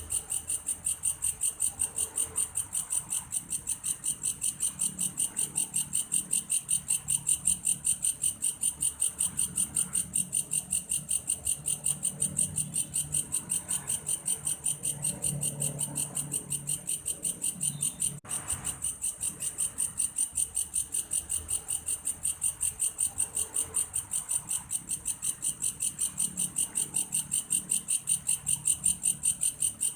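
Insect sold as belalang kayu (a grasshopper) calling in a steady, high-pitched, rapid pulsed chirp, three or four pulses a second, much like a cricket. There is a momentary break a little after the middle.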